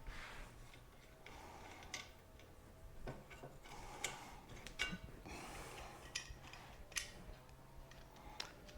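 Light clicks and clinks of hand tools and small parts being handled, about one a second.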